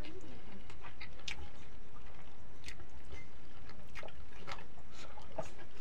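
Close-up eating sounds: chewing and wet lip smacks, a scatter of short clicks, from rice with dal and palak saag eaten by hand.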